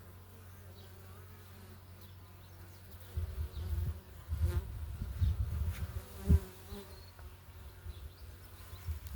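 Honeybees buzzing at the hive in a steady hum. From about three seconds in, a run of loud low rumbles and thumps comes over it, the strongest a little after six seconds.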